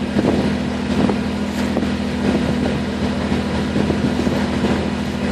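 Small water taxi's motor running steadily with a constant low hum, with wind on the microphone.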